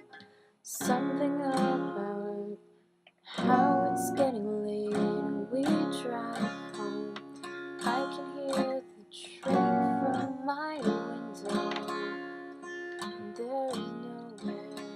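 Acoustic guitar music, strummed, with a short break about three seconds in before it comes back in.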